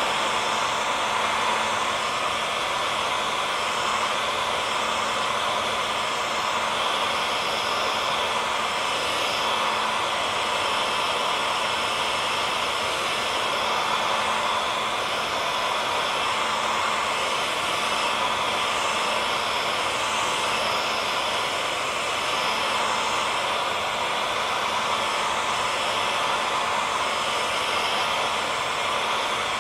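Handheld hair dryer running steadily: an even rush of fan air, with a faint steady motor whine underneath and no change in speed.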